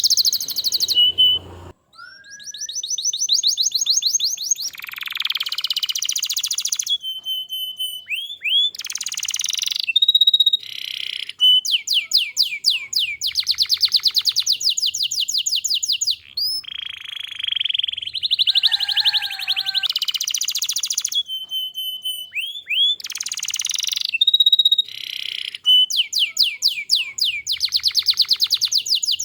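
Domestic canary singing a long, unbroken song of rapid trills and rolls, broken by short high whistled notes and brief pauses.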